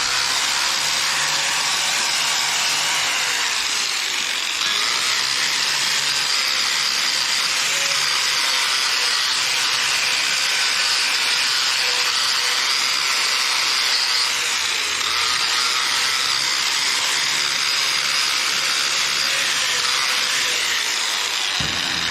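A handheld power tool running steadily at full speed, scouring grime and old paint off a cast-iron tractor front weight. It makes a continuous, even, gritty grinding noise.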